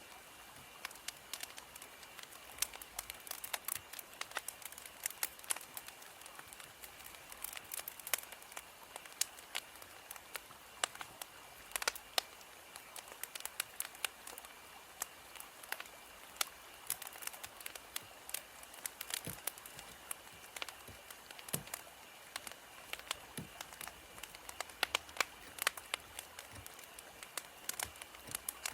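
Wood fire crackling, with a steady hiss and frequent irregular sharp pops and snaps.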